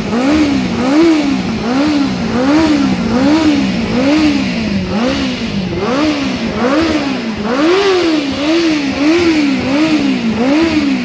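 600 cc sport motorcycle engine revved in place, the throttle blipped over and over so the exhaust note rises and falls rhythmically, a little more than once a second.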